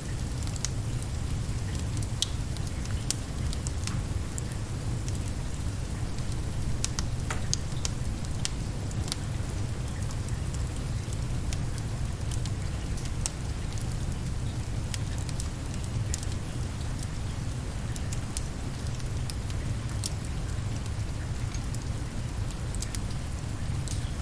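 Steady rain together with a crackling log fire: an even hiss over a low rumble, dotted with scattered sharp crackles and pops.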